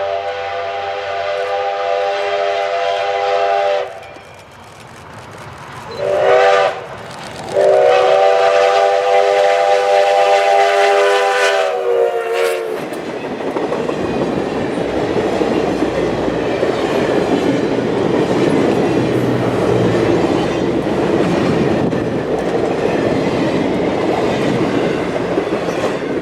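The chime whistle of a 4-6-2 steam locomotive sounds a long blast, a short one and another long one. About 13 seconds in, the whistle stops and the train goes by with a steady, loud rush of rolling noise.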